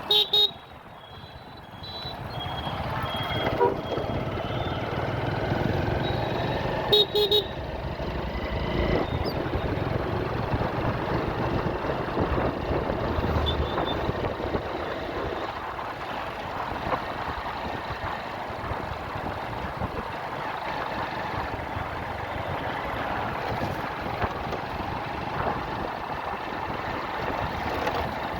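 Road traffic heard while riding, a steady rush of engines, tyres and wind. Short vehicle horn honks sound at the very start, again faintly at about three and a half seconds, and twice near seven seconds.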